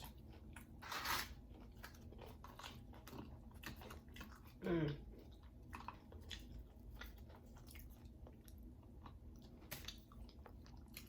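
Close-miked chewing with crisp crunches, typical of someone eating tortilla chips. There is a louder crunch about a second in and a brief vocal sound near the middle.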